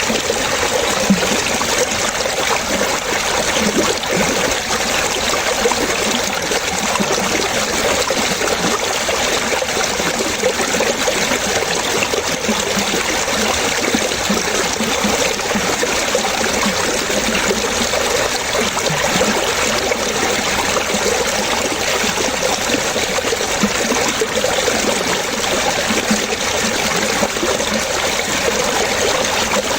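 Running water trickling and splashing steadily, with small burbles scattered through it.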